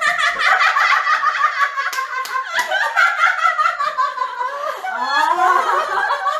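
Women laughing hard and at length, high-pitched and unbroken.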